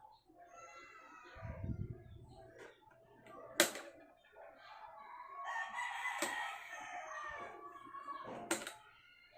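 A rooster crowing, one long call of about three seconds in the second half. A few sharp clicks come before and during it, with a brief low rumble early on.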